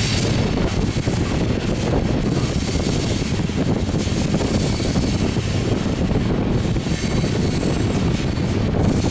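BNSF grain train of covered hopper cars rolling past, a steady low rumble, with wind buffeting the microphone.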